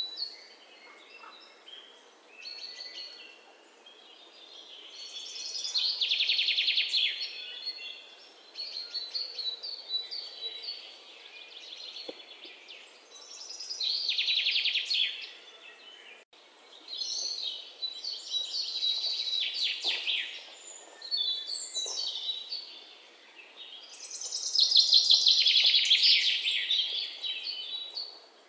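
Songbirds singing: loud, fast trilled phrases every several seconds, with softer chirps in between, over a faint steady outdoor hiss.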